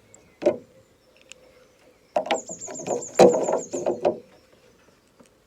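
A high, rapidly wavering bird trill lasting about a second and a half, over a cluster of knocks and rustling from the craft being handled; a single click comes shortly before.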